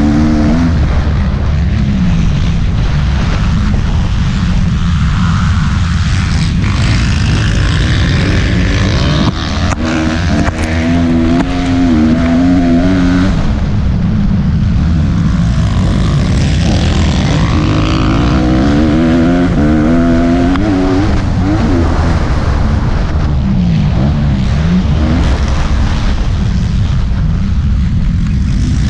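Motocross bike engine at full race throttle, its pitch climbing and dropping again and again as it revs up, shifts and backs off through corners and straights.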